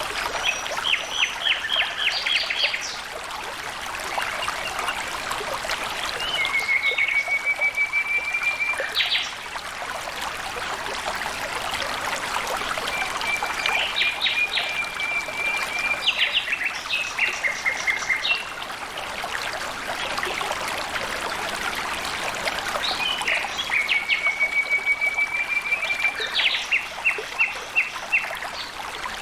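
Water trickling and flowing steadily, with a songbird repeating a phrase three times: a run of quick high notes and a rapid trill held about two seconds.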